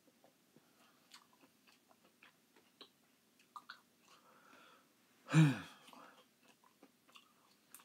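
Chewing a mouthful of canned crushed pineapple: small wet mouth clicks. About five seconds in comes a short, loud vocal exhale that drops in pitch.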